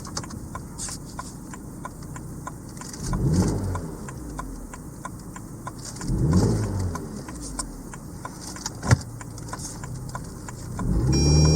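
BMW 120i's N46B20 2.0-litre four-cylinder engine starts about eleven seconds in and settles into a steady idle, with a high electronic chime sounding as it catches. Before that come scattered clicks, two brief swelling rumbles and one sharp click.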